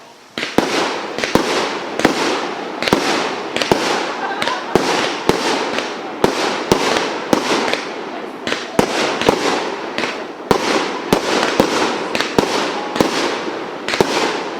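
Multi-shot firework cake (the 'Dominator') firing a rapid run of sharp bangs, about two a second, over continuous hissing and crackle.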